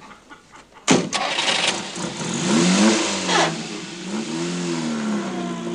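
A sharp bang about a second in, then a car engine starts and revs, its pitch rising and falling several times as the car pulls away.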